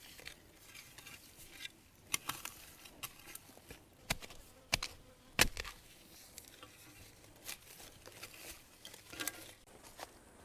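Irregular sharp snaps and crackles of dry bamboo leaves and twigs being trodden on and pushed aside, with light rustling between them. The loudest snaps come about two, four and five seconds in.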